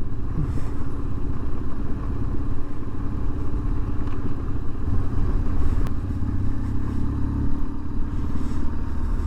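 BMW R1150 GSA's boxer twin running under way on a gravel road, with a steady low engine sound that grows stronger for a few seconds past the middle. A single sharp click a little before the middle of that stretch.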